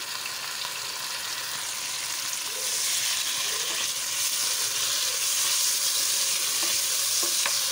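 Raw chicken pieces sizzling in hot oil with frying onions in an aluminium karahi while being stirred with a wooden spatula. The sizzle grows louder about three seconds in, and there is a light knock near the end.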